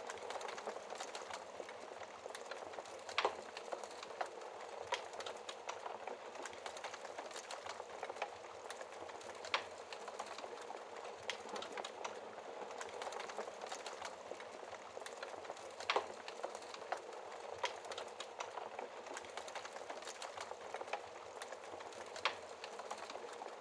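Wood fire in a fireplace crackling steadily, with a dense run of small crackles and a few louder pops, about four in all.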